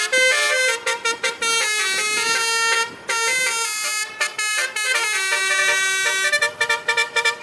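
Truck basuri, a multi-trumpet musical air horn, blaring a tune of held notes and stepwise note changes. Near the end it plays a quick run of short staccato blasts.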